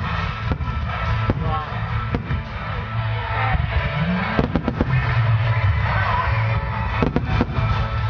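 Booming bursts of 12-inch (shakudama) aerial firework shells over loud music. Single bangs come in the first two seconds, a rapid cluster about four and a half seconds in, and another cluster around seven seconds.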